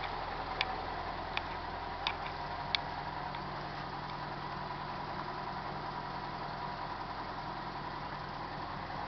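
Toyota 5K inline-four petrol engine idling steadily after its morning start, with a few sharp ticks in the first three seconds.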